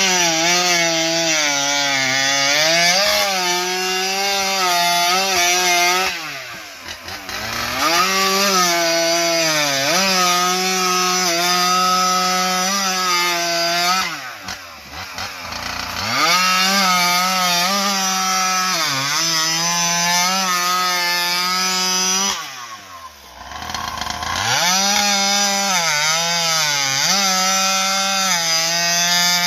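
Ported Stihl MS661 chainsaw with a tuned expansion-chamber pipe cutting through a spruce log at full throttle, its high pitch wavering under load. Three times the engine drops off with a falling pitch, then revs back up into the next cut.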